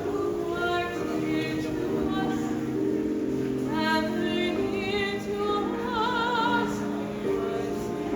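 Opera-style singing with a wide vibrato on held notes, over steady, sustained low accompanying notes.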